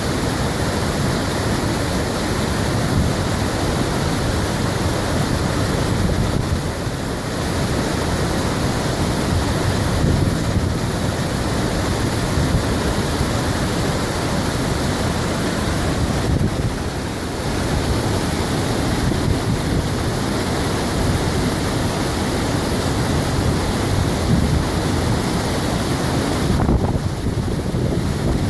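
Waterfall about 20 metres high, its falling water making a loud, steady rushing noise.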